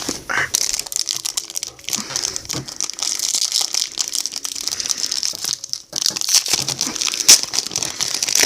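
Foil wrapper of a trading card pack crinkling and tearing as it is worked open by hand, a dense irregular crackle that pauses briefly near the end.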